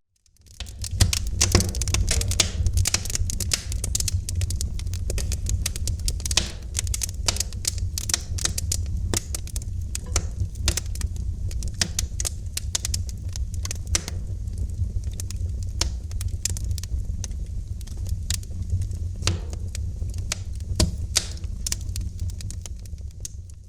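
Wood fire crackling in a fireplace: a dense run of sharp snaps and pops of varied loudness over a steady low rumble of burning. It fades in during the first second and dips again near the end.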